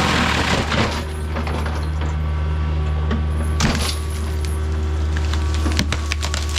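Mini excavator's forestry mulching head running steadily under load, chewing into wood, with sharp cracks and splintering a few times as the wood breaks.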